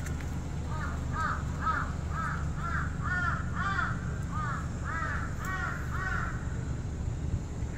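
A bird calling over and over: about a dozen short, harsh, arching calls, roughly two a second, that stop a little over a second before the end, over a steady low rumble.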